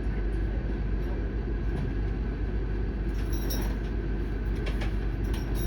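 Cabin noise inside an AM class electric multiple unit: a steady low rumble of the train, with a few faint high clicks about three seconds in and again near the end.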